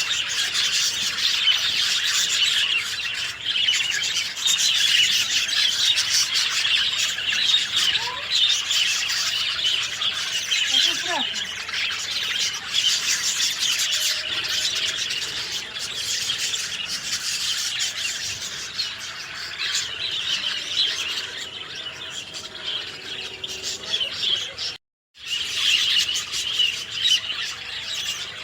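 Dense chorus of many small birds chirping and twittering together, without pause, except for a brief complete cut-out near the end.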